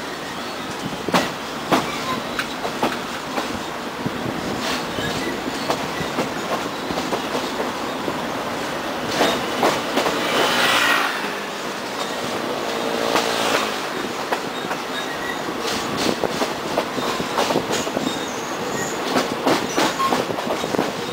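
Passenger train running on the track, its wheels clicking over rail joints again and again, with a louder rush of noise about ten seconds in.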